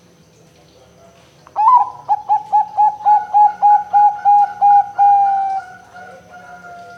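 Zebra dove (perkutut) singing: a quick string of about a dozen short, evenly spaced coos begins about a second and a half in. It ends in a longer drawn-out note that sinks slightly and fades.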